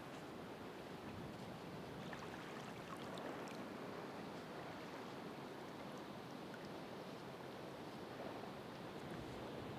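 Ocean surf washing on the shore: a steady rushing wash of water with no single wave break standing out.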